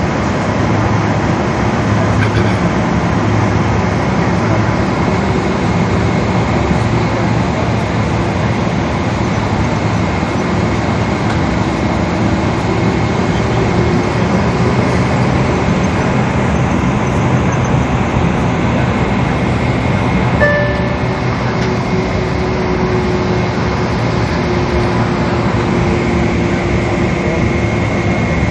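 Steady cabin noise inside a Boeing 777 airliner: the engines and rushing air make a loud, even roar with faint steady whines. A short beep sounds once about twenty seconds in.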